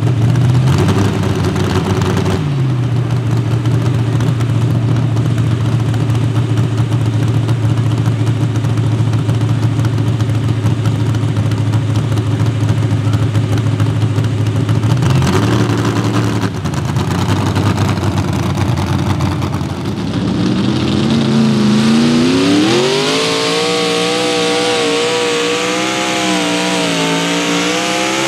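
Mini rod pulling tractor engine running at a steady idle, blipped up briefly twice. Then, about twenty seconds in, it is opened up and climbs sharply in pitch under load, its speed wavering up and down near the end.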